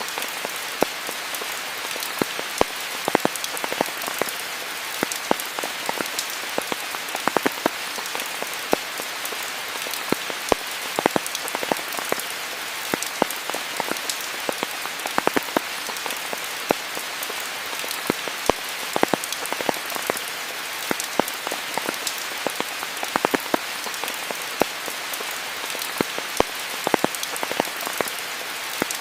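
Steady rain falling, a continuous hiss with many close, sharp drips and drops pattering irregularly on near surfaces.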